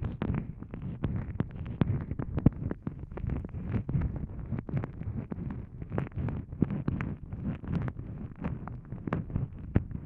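ASMR ear-eating mouth sounds close to the microphone: wet licking, sucking and lip smacks, heard as a dense, irregular stream of small clicks over soft low thumps.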